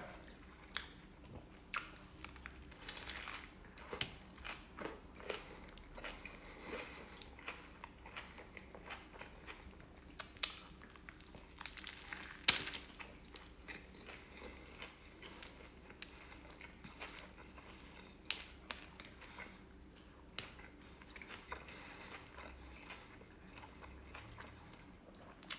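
Biting and chewing a toasted Subway chicken and bacon ranch melt sub on Italian herbs and cheese bread, with small crunches and scattered clicks of mouth sounds throughout.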